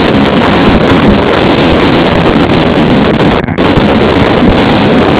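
A car engine running hard while the car drifts on a wet surface, overloaded and buried in wind noise on the microphone. The sound drops out briefly about three and a half seconds in.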